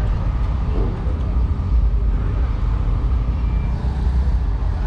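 Car engine running steadily at idle, with no change in pitch.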